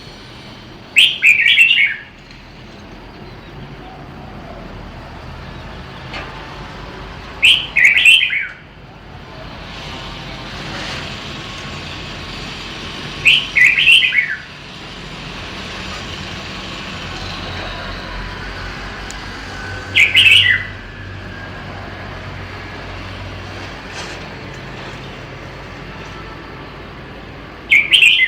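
Red-whiskered bulbul singing short song phrases of about a second each, five times at intervals of about six seconds, over a steady low background rumble.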